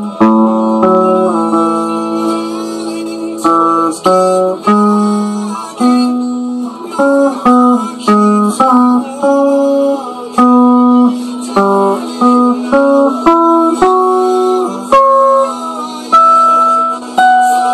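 Guitar playing an instrumental passage of picked notes and chords, each note starting sharply and ringing out before the next.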